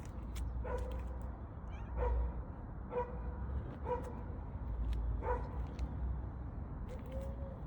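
A pet animal giving short, same-pitched calls about once a second, about seven in all, the last one a longer call with a slight rise and fall near the end.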